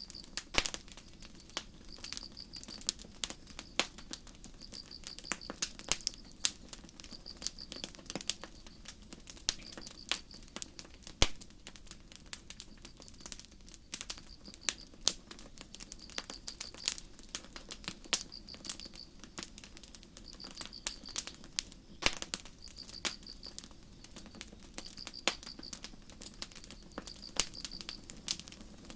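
Wood campfire crackling with sharp, irregular pops, over crickets chirping in short high trills that repeat every second or so.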